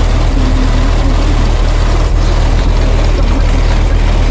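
Very loud, deep bass played through four Resilient Sound Platinum 18-inch subwoofers in a sixth-order bandpass wall, a steady pounding low end that fills the vehicle.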